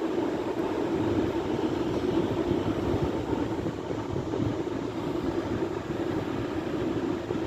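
Sea waves breaking, a steady continuous rush of surf with gentle rises and falls in loudness.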